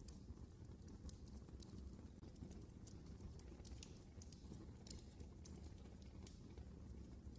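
Faint wood fire burning in a fireplace: a steady low rumble of flame with irregular sharp crackles and pops from the burning logs.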